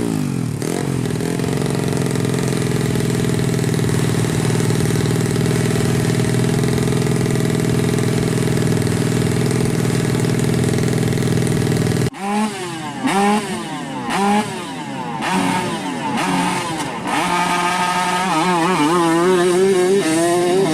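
Motorcycle engine held at steady high revs, then after a sudden cut about twelve seconds in, repeated throttle blips that rise and fall, climbing to higher revs near the end.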